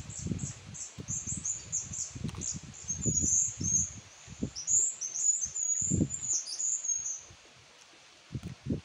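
Small birds chirping high and fast in short runs, stopping about seven seconds in. Underneath, close low smacks and thumps as santol fruit is bitten, sucked and handled.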